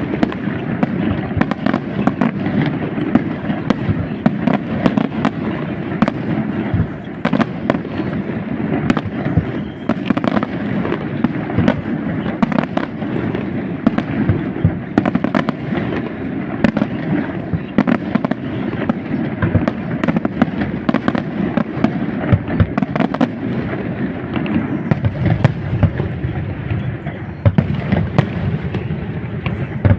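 Aerial fireworks display: a dense, unbroken barrage of shell bursts, sharp bangs and crackle many times a second over a continuous low rumble.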